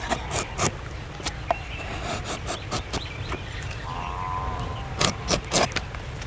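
Irregular sharp clicks and knocks, with a cluster of louder ones about five seconds in, over a steady low rumble. A short wavering call sounds about four seconds in.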